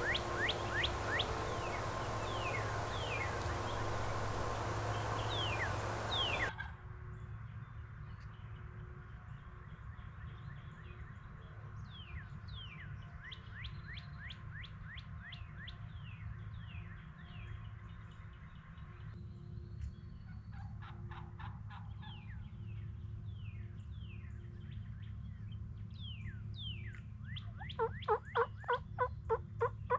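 Songbirds chirping throughout in short downward-swept notes over woodland background. A steady hiss cuts off suddenly about six seconds in. Near the end a wild turkey calls loudly in a quick run of about eight notes.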